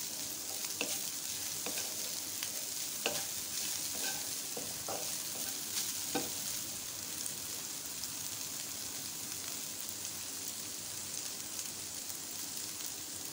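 Shredded boiled chicken sizzling gently in a little oil in a non-stick pan, while a wooden spatula stirs it with scattered scrapes and taps over the first half. The chicken is only being lightly sautéd.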